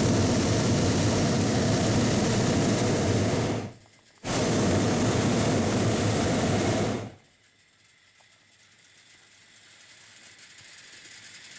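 Hot-air balloon's propane burner firing in two long blasts with a half-second break between them, shutting off about seven seconds in.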